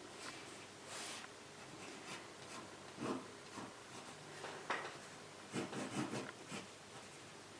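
Pen nib scratching across textured watercolour paper in short, irregular strokes, drawing lines over a dried ink painting. A cluster of quick strokes comes about two-thirds of the way through.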